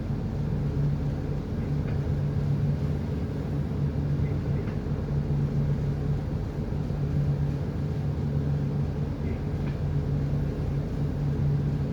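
Ship's engine running with a steady low drone, its deep hum swelling and easing slightly every second or two.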